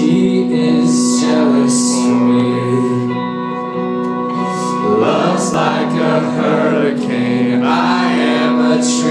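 A man singing a Christian worship song, with held chords sustained underneath the voice.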